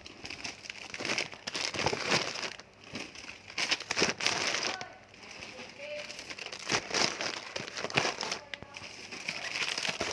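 Plastic packaging crinkling and rustling as it is handled, in irregular bursts with brief lulls.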